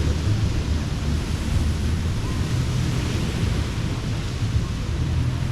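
Ocean surf washing onto a beach: a steady hiss of waves that swells about halfway through, over a low rumble of wind on the microphone.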